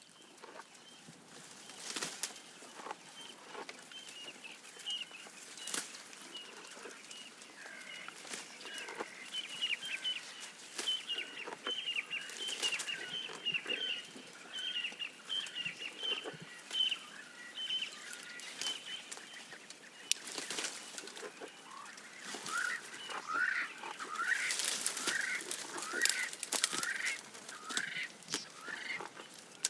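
Birds calling in long runs of short, repeated chirps, joined near the end by lower swooping notes, over scattered sharp snaps and rustles of a giraffe browsing on leaves and twigs.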